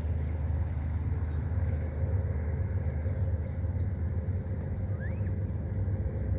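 A steady low rumble, with one short rising bird peep about five seconds in.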